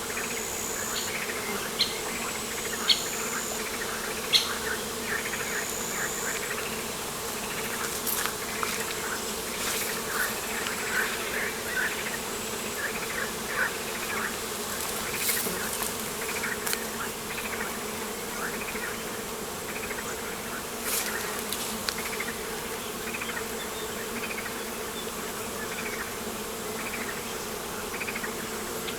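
A steady insect buzz, like a bee or fly hovering, runs throughout alongside many short, high chirps. A few sharp clicks come in the first five seconds.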